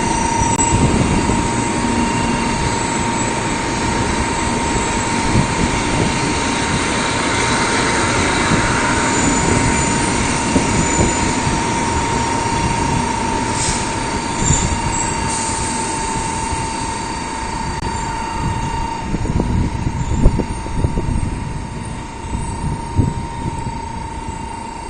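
Two Shinkansen 'Sakura' trains pulling into the station together. The rush and rumble of their running slowly dies away as they brake to a stop, with a steady high tone over it throughout and a few sharp knocks near the end.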